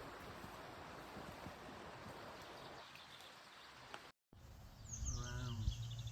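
Outdoor ambience: a steady hiss of background noise, then after a sudden cut a few seconds in, small birds chirping over a low steady rumble, with a brief lower-pitched call in the middle.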